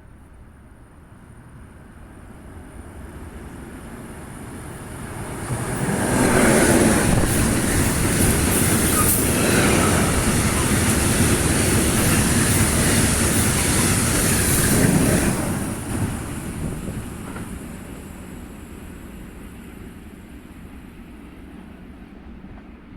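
Freight train with an E652 electric locomotive and a Vossloh G2000 diesel passing: the noise builds, stays loud for about nine seconds as the train goes by, then fades away. A high thin whine runs through it.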